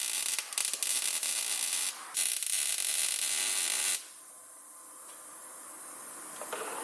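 Welding arc on exhaust pipe, a loud crackling hiss in two runs split by a short pause near 2 seconds. It stops about 4 seconds in, leaving a fainter steady hiss.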